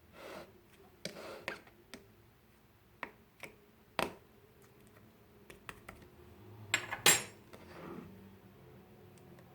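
Slime and its containers being handled for mixing: scattered short clicks and taps with a few brief rustly bursts, loudest in a cluster about seven seconds in.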